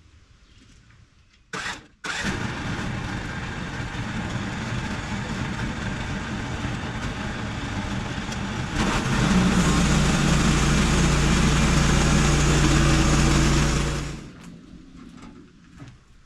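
Electric log winch running as it hauls a heavy log up ramps onto a sawmill. It starts about two seconds in after a brief burst, grows louder with a strong low hum about nine seconds in as it takes the load, and stops about fourteen seconds in.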